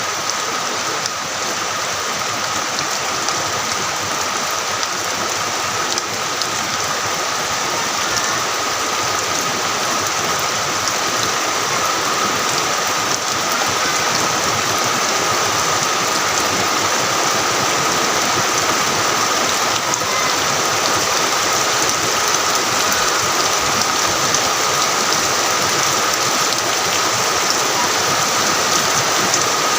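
Heavy rain falling steadily, a dense even hiss that grows slightly louder over the half minute, with a thin steady high tone running underneath.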